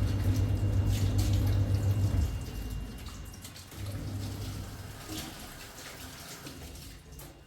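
Water running from a tap, with a low hum that stops about two seconds in and comes back more weakly a little later, and scattered light clinks.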